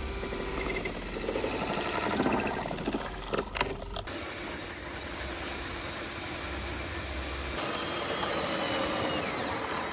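Radio-controlled construction machines running, with motor whine gliding up and down. The sound changes abruptly about four seconds in and again near eight seconds, as shots cut.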